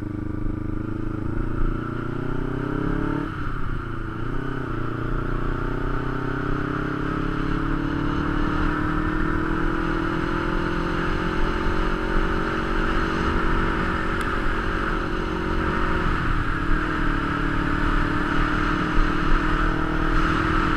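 Kawasaki Ninja 250's parallel-twin engine running under way, its note climbing slowly with brief drops in pitch about three seconds in and again about sixteen seconds in, over a steady rushing hiss.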